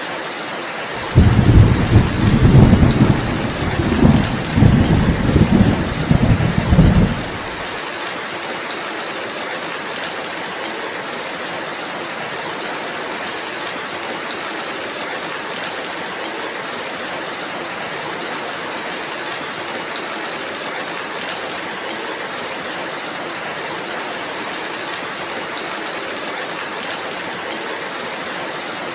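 Steady rainfall hiss with a roll of thunder about a second in: a deep rumble that swells in several surges for about six seconds, then cuts off suddenly, leaving the rain alone.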